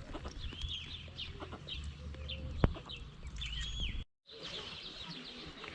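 Small birds chirping and calling over and over in short, quick notes, over a low rumble of wind or handling on the microphone. A single sharp click about two and a half seconds in, and the sound drops out completely for a moment about four seconds in.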